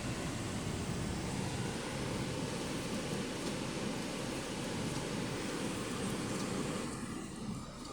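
Holden Cruze 1.8-litre four-cylinder petrol engine running steadily, getting quieter about seven seconds in.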